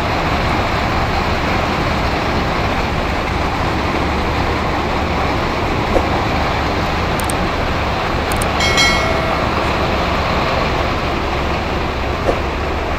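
Heavy rain pouring down as a steady, dense hiss. A short pitched sound rings out about nine seconds in.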